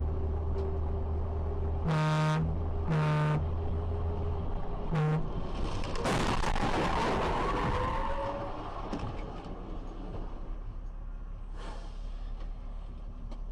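A car horn honks three times, two half-second blasts then a short toot, over a steady engine drone. It is followed by a couple of seconds of loud rushing noise with a wavering squeal.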